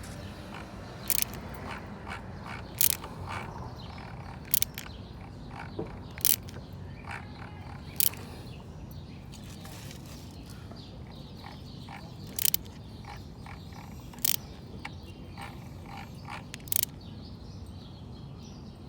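Sharp metal clicks, about a dozen, spaced a second or two apart, as the Lifan Lycan 250's engine is turned over by hand toward top dead center, over a steady low hum.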